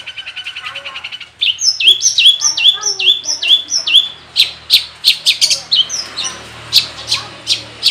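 Long-tailed shrike (cendet) singing. A fast ticking trill gives way, about a second and a half in, to about six repeated notes that each drop in pitch and level off. From about halfway, sharp short notes follow, two or three a second.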